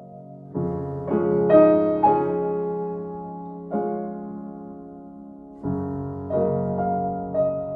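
Background music: slow, soft solo piano, with chords and single notes struck every half second to two seconds and left to ring and fade.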